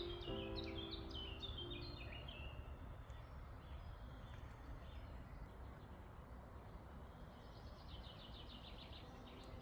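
Small birds chirping over a low, steady rumble of wind, with a quick trill near the end. A few held tones fade out in the first two seconds.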